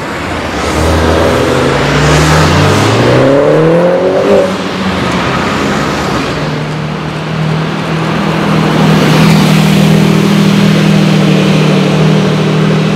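Mini John Cooper Works Coupé's turbocharged 1.6-litre four-cylinder accelerating hard, its engine pitch climbing until it drops away about four and a half seconds in. A steady low engine drone follows.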